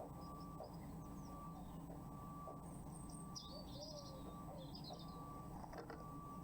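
Faint chirping calls of small garden songbirds, a few short phrases in the middle, over a steady electrical hum and thin whine from the webcam's microphone. A few faint knocks come near the end.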